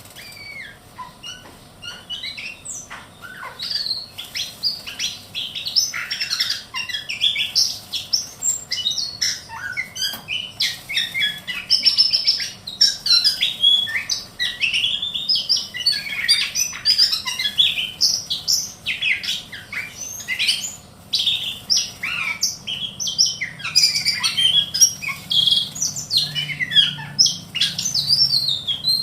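Ciung batu kecil (small whistling thrush) singing a fast, unbroken run of varied chirps and short whistles. The song is quieter in the first couple of seconds and then keeps going densely.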